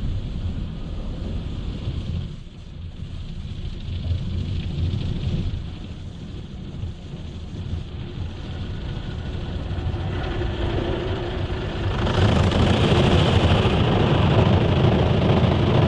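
Automatic car wash machinery running: a steady low rumble that builds slowly, then steps up about twelve seconds in as a louder hiss sets in.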